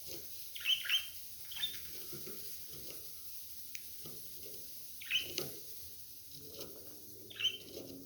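Budgerigars chirping: short sharp calls in three brief clusters, about a second in, around five seconds in and near the end, over quieter low chatter.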